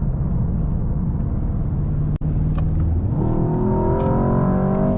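The twin-turbo 4.0-litre V8 of a 2024 Mercedes-AMG S63 E Performance pulling under hard acceleration. A low, steady rumble breaks off briefly about two seconds in, then the engine note climbs steadily in pitch.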